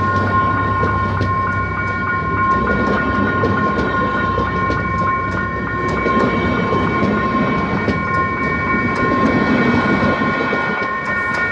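A diesel-hauled passenger train rolling past as it pulls out of a station, with a steady rumble, repeated clicks of the wheels over rail joints, and a steady high-pitched whine held throughout.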